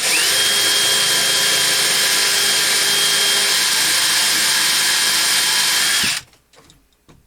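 Power drill running a Speed Out screw extractor in reverse against a stuck fastener: the motor spins up, whines steadily for about six seconds, then winds down and stops.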